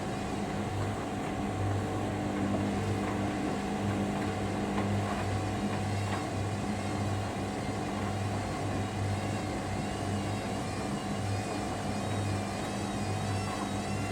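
Hoover Dynamic Next washer-dryer on its final spin, the drum turning steadily with a motor whine that wavers slightly in pitch and a low hum that cuts in and out every second or so.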